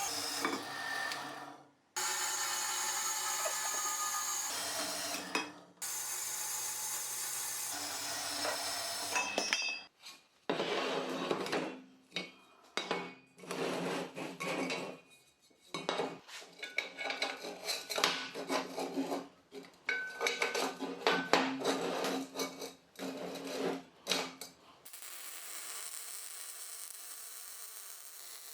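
Workshop sounds in short cut-together clips: a steady machine running with a held tone, then a long run of irregular metal clanks, knocks and scraping as parts and tools are handled, ending in a steady hiss.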